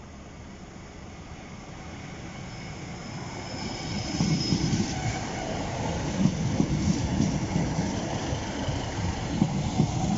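A train approaching and running past over the level crossing. It grows louder over the first four seconds, then becomes a steady rumble of wheels on rail with irregular thuds.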